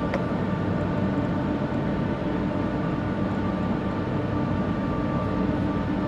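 Steady mechanical running noise from an engine or machine, with a constant faint whine and no change in pitch or level.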